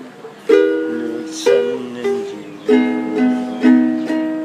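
An acoustic string instrument strummed in single chord strokes, about six, each left to ring out before the next, moving through a short chord progression.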